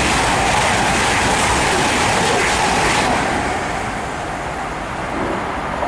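A Class 222 Meridian diesel multiple unit passing through the station. It makes a loud, steady rush of noise that eases off after about three seconds as the train goes by.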